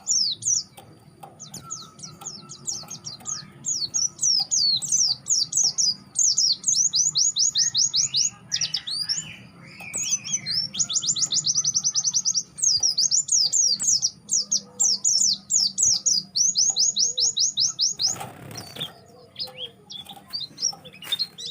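White-eye (pleci) singing fast, high-pitched chirping trills, long rapid runs of short downslurred notes broken by brief pauses. A lower warbling phrase comes about eight seconds in, and a brief rustling noise about two seconds before the end.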